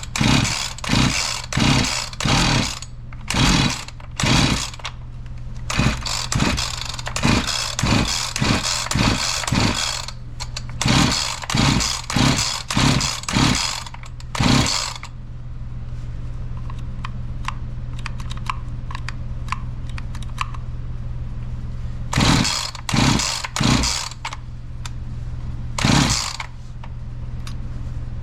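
Husqvarna 345 chainsaw being cranked by its recoil pull-starter: about twenty quick pulls in a row, a pause, then a few more near the end, the two-stroke engine turning over without catching. With spark confirmed, the owner takes the no-start for a fuel problem.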